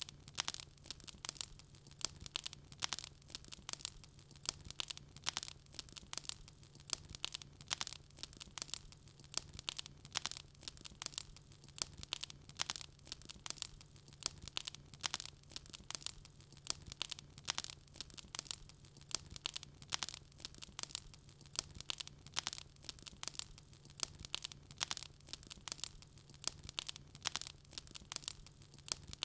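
Wood fire crackling in a fireplace: a continuous stream of sharp snaps and pops, several a second, over a faint low steady hum.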